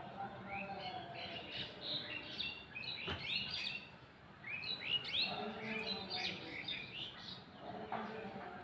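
Small birds chirping busily, many quick rising chirps coming in two long bursts, with a single sharp click about three seconds in.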